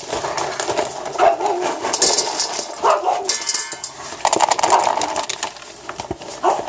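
Dog whining and yelping in excitement as its food is being prepared, in repeated short high calls, with light clinks of dishes in between.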